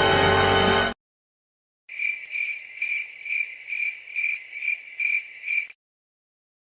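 Crickets chirping, the stock 'awkward silence' sound effect: a high, even chirp repeated about two and a half times a second for just under four seconds. It follows the end of a music clip and a brief silence.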